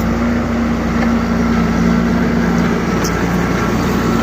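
Tractor engine running steadily under a heavy sugarcane load, a low, even hum that holds its pitch.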